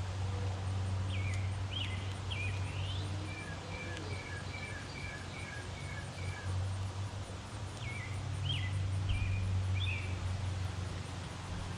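Backyard songbirds chirping in short sharp calls, with an even run of repeated notes in the middle. A steady low hum runs underneath.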